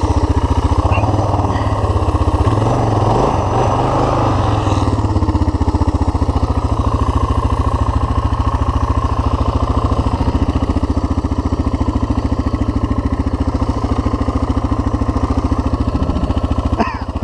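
Single-cylinder four-stroke engine of a Suzuki DR dual-sport motorcycle running steadily.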